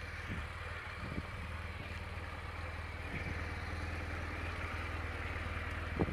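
BMW GS adventure motorcycle engine idling steadily, with a few light knocks.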